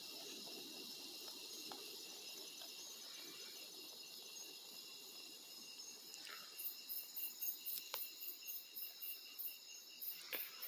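Night insects calling: crickets and other insects trilling steadily on several high pitches. About six and a half seconds in, a louder, very high pulsing call joins at three to four pulses a second. A couple of faint clicks are heard near the end.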